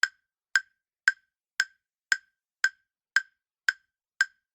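Countdown-timer tick sound effect: a sharp, woody tick repeating evenly about twice a second, nine ticks in all, counting down the answer time in a quiz.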